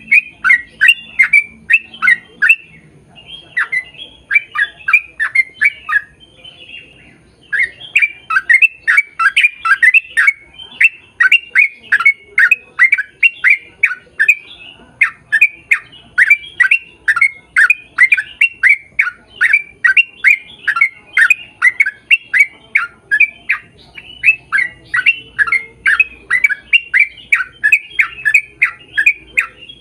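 A bird calling over and over in a fast series of short, loud chirps, about three a second, with brief pauses about three seconds in and again around six to seven seconds.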